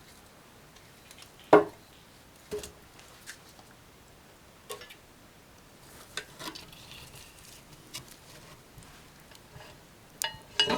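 Scattered light knocks and clicks of objects being handled in a small room. The loudest comes about a second and a half in, with several fainter ones spread apart after it.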